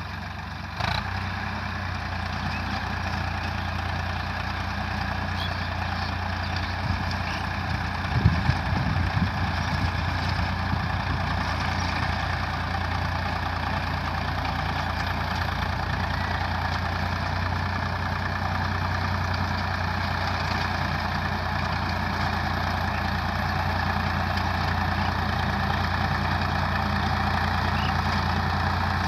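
Swaraj 855 FE tractor's three-cylinder diesel engine running steadily, with a few short knocks about a second in and again around eight to nine seconds in.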